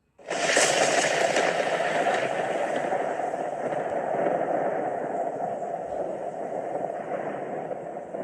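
Storm sound effect: a steady rush of heavy-rain noise that starts suddenly and slowly fades.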